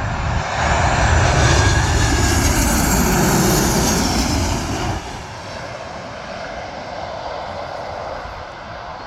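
A Boeing 737-800's jet engines running loud during the landing, with a whine that falls in pitch over the first few seconds. The noise drops sharply about five seconds in and carries on quieter.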